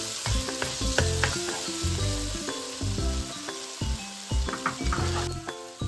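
Onion, tomato and ginger-garlic masala sizzling as it fries in a pan, with light background music.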